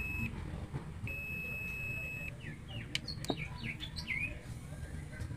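Two steady electronic beeps, a short one at the start and a longer one of about a second, followed by a quick run of bird chirps over a low background rumble.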